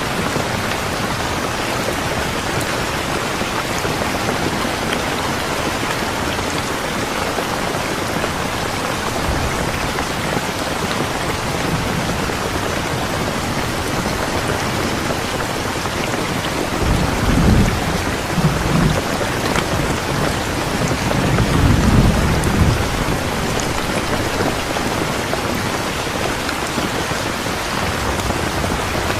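Steady, dense rain falling. Two low rumbles of thunder roll in a little past the middle, one after the other.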